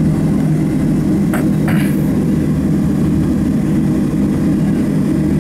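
Steady low drone of a Boeing 737-700 heard from inside the passenger cabin, with two short clicks about a second and a half in.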